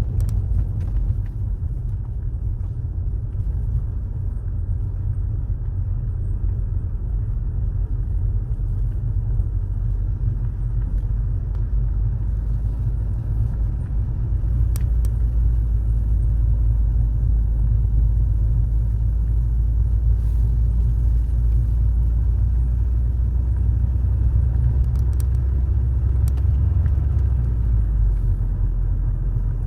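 Car driving along a road: a steady, heavy low rumble of road and engine noise, with a few faint clicks.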